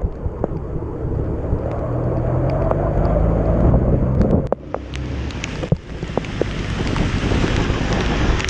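Motorcycle being ridden through heavy rain and standing water: the engine runs under a dense rush of wind noise on the microphone, with scattered sharp ticks throughout. The engine note grows stronger for a couple of seconds, then drops away abruptly just after the midpoint.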